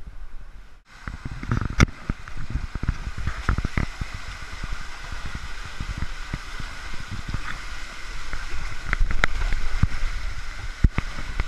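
Rushing, splashing water on a water-park slide, with scattered knocks and bumps against the camera and slide.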